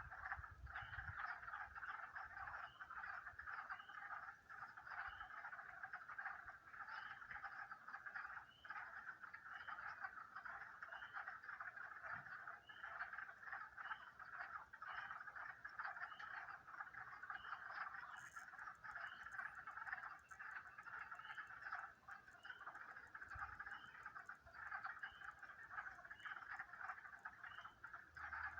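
Faint, continuous chorus of many animal calls, with a separate short, higher chirp repeating about once a second.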